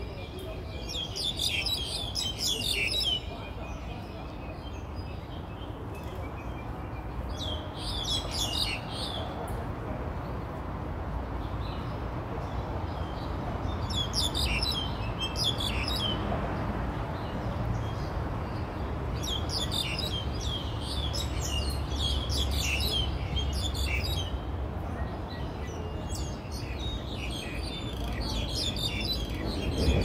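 Birds chirping and singing in the trees in repeated short bursts of quick high notes, a few seconds apart, over a steady low background rumble.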